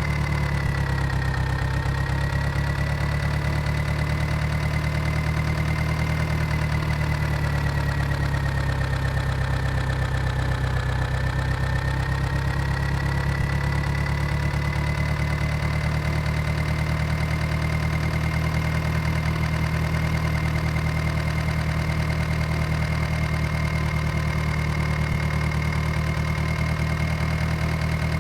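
Powertrac tractor's diesel engine idling steadily, with a thin high whine above the low engine rumble that sags slightly in pitch twice.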